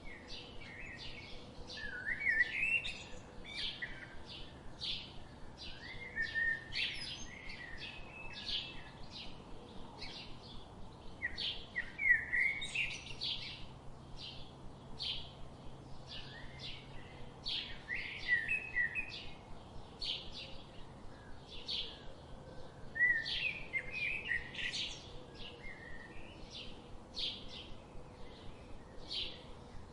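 Small birds chirping: a steady series of short, high chirps, about two or three a second, with louder twittering phrases breaking in every few seconds.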